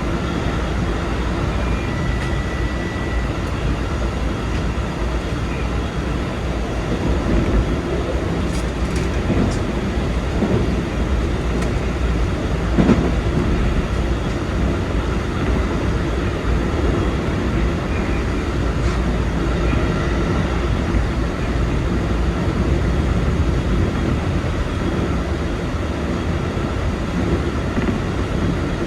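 Keikyu 2100 series electric train running at speed, heard from the driver's cab: a steady rumble of wheels on rail, with a single brief knock about thirteen seconds in.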